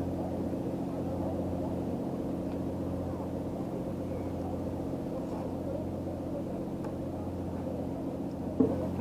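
A steady, low engine hum that holds an even pitch, with a single sharp knock near the end.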